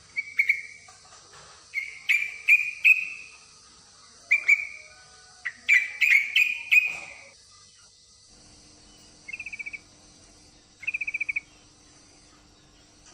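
Yellow-vented bulbul calls: loud, short bubbly notes in clusters of two or three, then two brief fast rattling trills later on. A steady high hiss runs underneath, and a low hum joins about two-thirds of the way through.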